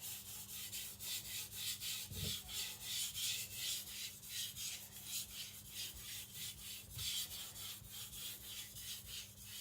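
Carbon-steel nakiri blade stroked back and forth on a Naniwa Professional whetstone under very light pressure, just the weight of the knife: an even scraping, about two to three strokes a second, as the edge's scratches are refined.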